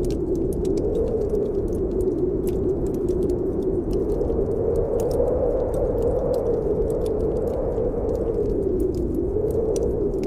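Snowstorm wind blowing steadily, its pitch slowly rising and falling, with a wood fire crackling over it in many small, scattered pops.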